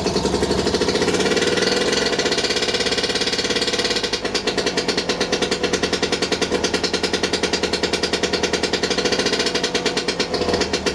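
A 1977 British Seagull outboard's single-cylinder two-stroke engine running on its first start after being left out in the weather, a loud rapid firing. From about four seconds in it settles into a distinct, regular beat.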